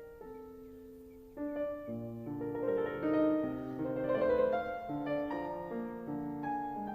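Background piano music: a slow melody of single notes, swelling into fuller chords about a second and a half in.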